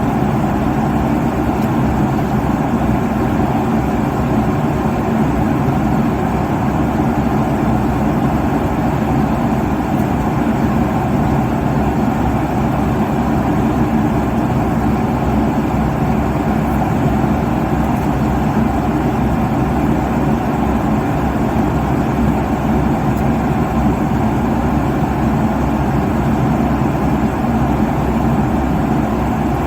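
Airliner cabin noise at cruising altitude: a steady rush of engine and airflow noise, heaviest in the low and middle range, unchanging throughout.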